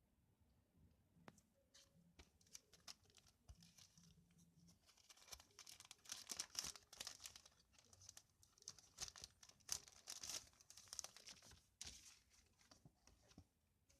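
Faint crinkling and rustling of packaging being handled: a run of irregular crackles and small clicks that grows busier about a third of the way in and tails off near the end.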